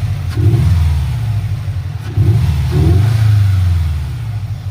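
2018 Subaru WRX STI's turbocharged 2.5-litre flat-four, breathing through a Cobb SF short-ram intake and an Invidia R400 cat-back exhaust, revving up in several surges, then easing off near the end.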